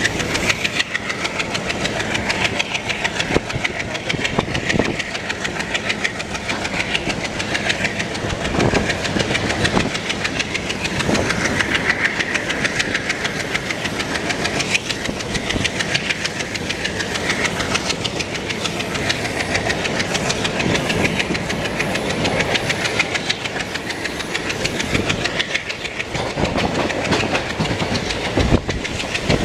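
Passenger train coaches running steadily along the track, heard from an open coach window: a continuous rush of wheel and rail noise with faint clicks of wheels over rail joints.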